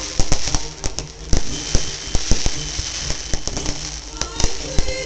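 Aerial fireworks bursting: a rapid, irregular string of sharp bangs and crackling, over music playing underneath.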